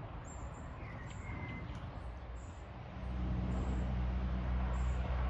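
Faint outdoor background with one short bird chirp about a second in. About three seconds in, a steady low rumble starts and becomes the loudest sound.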